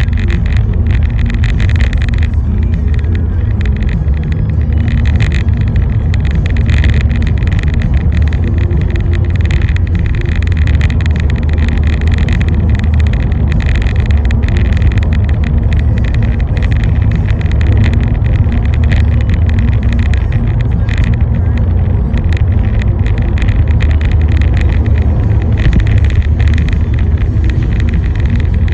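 Car driving in the rain: a steady, loud low rumble of engine and tyres, with a faint crackling hiss above it.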